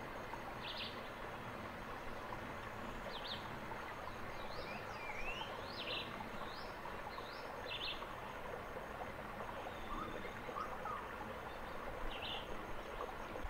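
Scattered short bird chirps and quick rising whistled notes, about a dozen, most in the first eight seconds and one more near the end, over a steady hiss of forest ambience.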